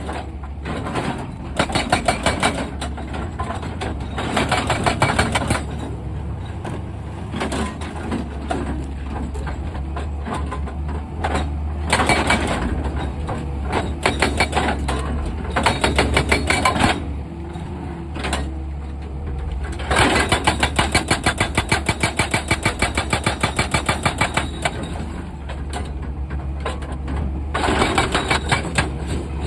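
Excavator's diesel engine running steadily, broken by repeated bursts of rapid, even metallic clatter lasting a second or two each, about seven times.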